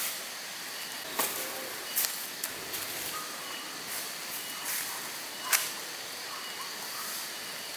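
Forest ambience: a steady hiss with faint high insect-like tones and short repeated chirps, broken by several sharp clicks or snaps, the loudest about two-thirds of the way through.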